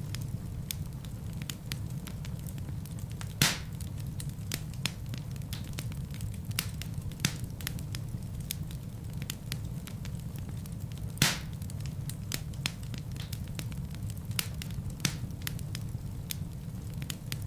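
Wood fire burning in a fireplace: a steady low rumble of flames with frequent irregular crackles and pops from the logs, two of them louder, about a third of the way in and again past the middle.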